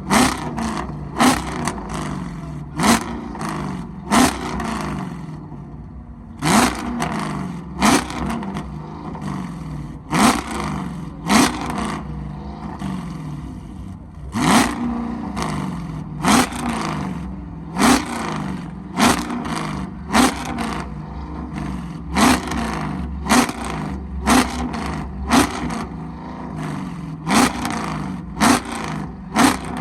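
Car engine idling with about twenty quick, sharp throttle blips, roughly one every second or so.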